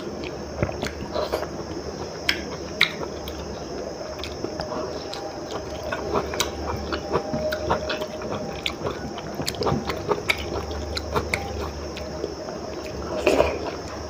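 Close-miked chewing and lip smacking of soft khichdi rice, with small wet clicks and squishes as fingers work the rice in a steel bowl; a louder burst of mouth sounds comes about 13 seconds in.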